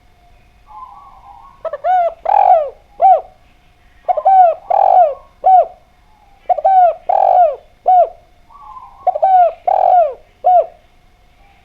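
Spotted dove (derkuku) cooing: four phrases about two and a half seconds apart, each a soft opening note and then three or four falling coos, the middle one the loudest.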